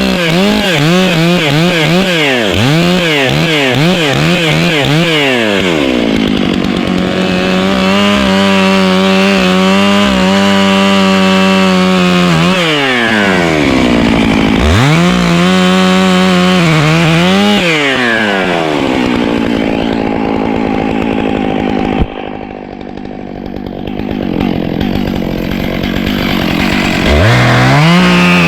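Chainsaw blipping its throttle in quick pulses, then running at steady full throttle through a cut, dipping toward idle and revving up again a couple of times. About two-thirds through there is a sharp click and the saw falls much quieter for a few seconds before revving up again near the end.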